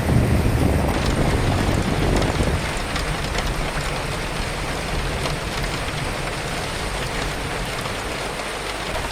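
Steady rain with wind. A low wind rumble is strong at first and eases off about two and a half seconds in, leaving lighter rain with scattered drop ticks.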